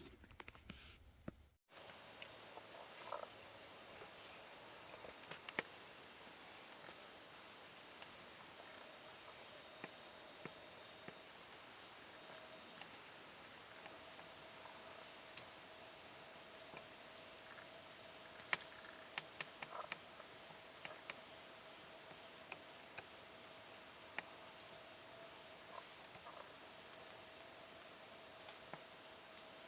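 Insects trilling in a steady, unbroken high-pitched chorus that starts abruptly a couple of seconds in, with a few faint ticks over it.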